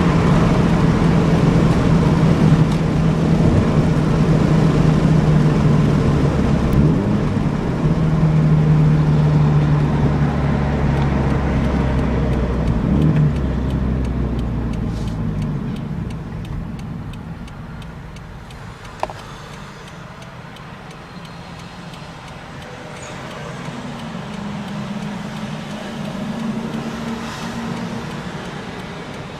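Car with an aftermarket catback exhaust driving, heard with the windows open: a steady exhaust drone under load for about the first half, then falling away to a quieter run as the driver eases off, with a slight swell near the end.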